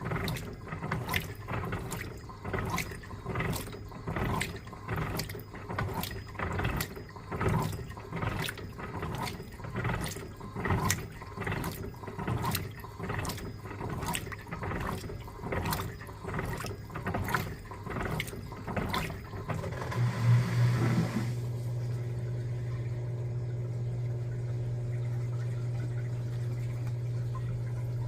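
Electrolux LTA15 top-loading washing machine agitating a load of bedding in water, swishing back and forth about twice a second. About twenty seconds in, the agitation stops after a short rush, and a steady low hum takes over.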